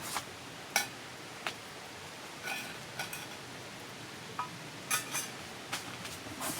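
Light clinks and taps of dishes and utensils being handled: about a dozen short, irregular strikes, a few with a brief metallic or glassy ring.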